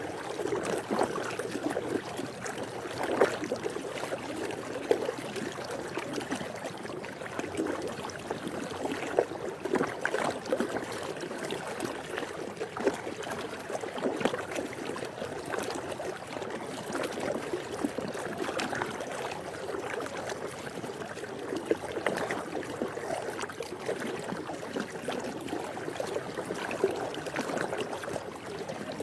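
Swimming pool water lapping and trickling steadily, with small splashes all through.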